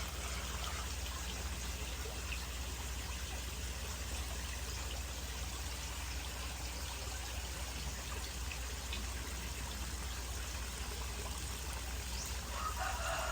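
Water pouring and trickling steadily as a pump fills a crayfish pond at increased flow and the excess drains through an overflow pipe, over a low steady hum.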